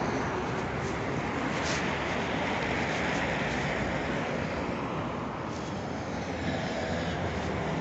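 Steady running noise of a ZiU-9 trolleybus in motion, a rumble of tyres and road with no distinct tones.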